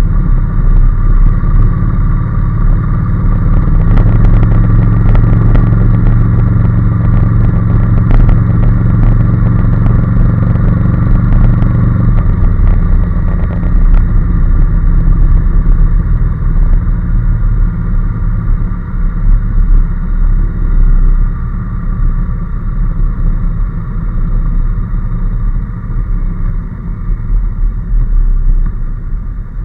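Honda NC750S's parallel-twin engine running on the road. The engine note is heaviest from about four to twelve seconds in, then eases off and grows quieter toward the end.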